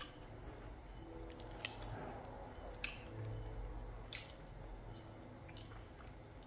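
A person chewing food close to the microphone: quiet chewing with a few sharp mouth clicks, the loudest about three seconds in, over a faint low hum.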